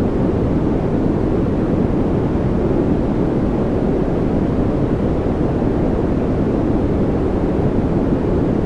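A steady, unbroken noise track, white noise by name, weighted toward the low end, so it sounds like a deep, even hiss with little treble.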